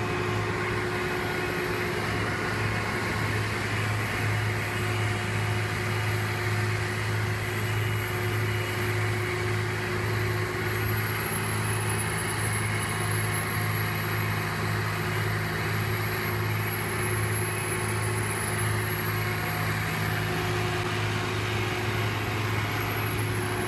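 Heavy road-repair machinery engine running steadily, a low even drone with a thin high whine above it.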